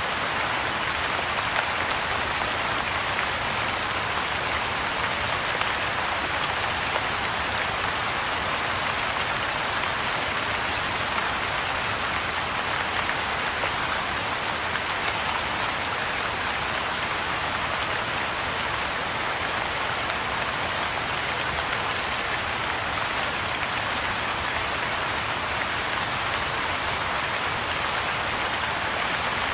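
Soft rain falling steadily on a pond's surface and the grass and shrubs around it: an even hiss of many small drops that holds unchanged throughout.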